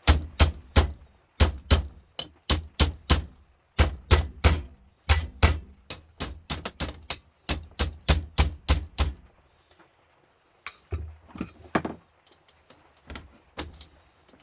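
Hammer blows on metal, struck rapidly about three times a second for around nine seconds, then a handful of scattered knocks.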